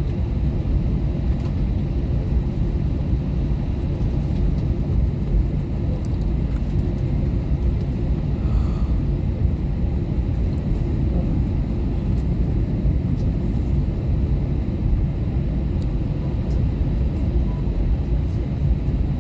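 Airliner taxiing after landing, heard from inside the cabin: a steady low rumble.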